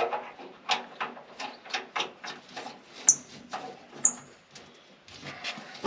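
Irregular clinks and knocks of hand tools and bolts against the steel of a combine feederhouse while bolts are fitted. Two short, high metallic rings come about three and four seconds in.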